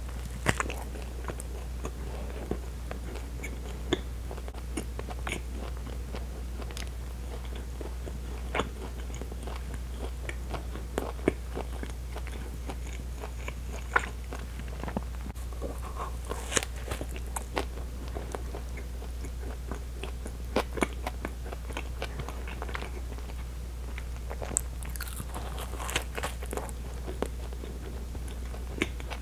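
Close-miked chewing and biting of bread, with irregular sharp clicks and crunches from the crust and mouth, over a steady low hum.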